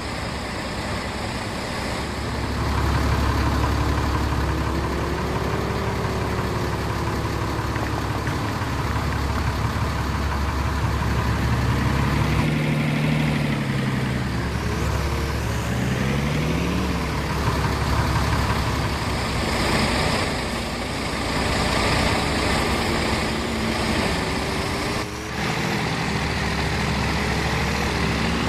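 Truck engines running under a steady low rumble, their pitch rising and falling several times as they rev and pull past.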